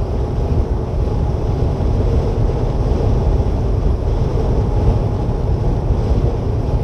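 Steady low rumble inside a tanker semi-truck's cab at highway speed, with strong wind around the truck.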